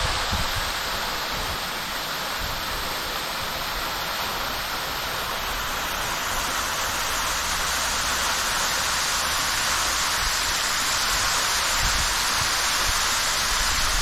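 Waterfall falling steadily: a loud, even rush of water. A few brief low thumps come near the start and near the end.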